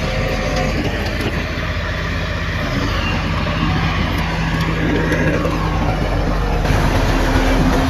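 Heavy diesel engine of earthmoving machinery running steadily under work, a deep continuous rumble whose pitch shifts slightly as the machine works.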